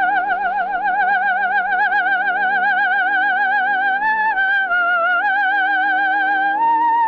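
Coloratura soprano singing a wordless, bird-like vocalise on long high notes with fast vibrato, over sustained orchestral chords. The note dips briefly a few seconds in and steps up to a higher held note near the end.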